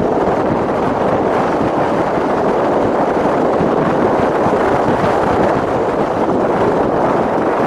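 Strong blizzard wind blowing across the microphone: a loud, steady rushing.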